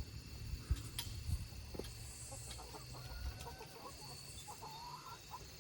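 Chickens clucking softly, with a few short, faint calls in the second half and a couple of light knocks about a second in.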